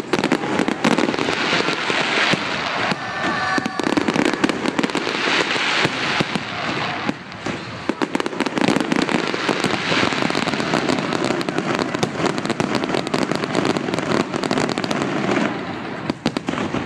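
Aerial fireworks display: a dense, continuous run of crackling, popping and bangs, with a short pitched sound about three seconds in.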